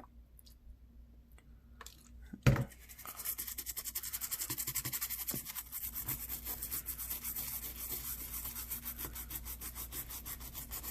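Brisk back-and-forth scrubbing on a phone circuit board being cleaned with 90% alcohol, fast even strokes that go on for about seven seconds. A single knock comes about two and a half seconds in, just before the scrubbing starts.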